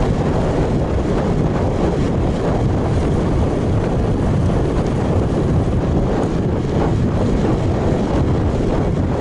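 Steady rushing wind noise on an action camera's microphone as the bicycle moves along.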